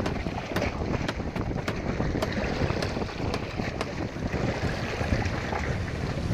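Wind buffeting the microphone over the wash of the sea, with scattered light clicks in the first half.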